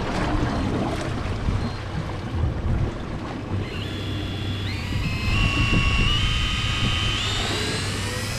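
A boat's engine and wind on the water, with a steady low hum; about halfway through, an electric fishing reel's motor starts winding, its whine stepping up in pitch several times.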